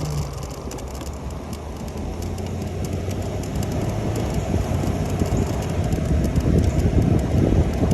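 Riding noise from an Onyx RCR electric motorbike: a steady rumble from the ride with wind buffeting the microphone, growing louder toward the end.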